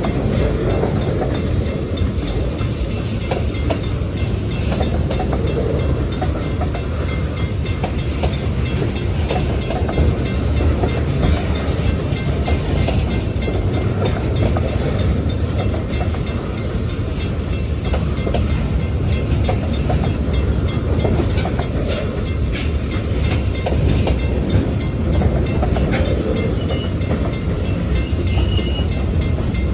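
Freight cars of a New York and Atlantic Railway train rolling past: a steady low rumble of wheels on rail with many light clicks, and a brief faint high squeal near the end.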